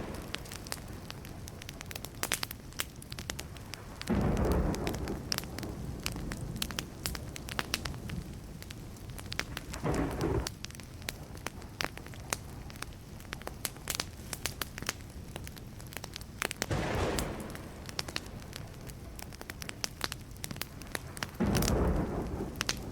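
Wood fire crackling steadily with many sharp little pops, and four short deep rumbles of thunder, about every five or six seconds.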